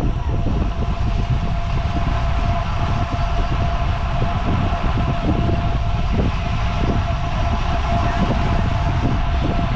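Wind buffeting the microphone and tyre rolling noise from a road bicycle ridden at speed, a steady rush with a thin constant whine above it.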